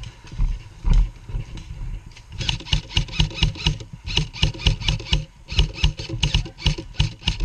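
Airsoft gunfire: rapid bursts of sharp shots, about six or seven a second, starting a couple of seconds in and broken by short pauses.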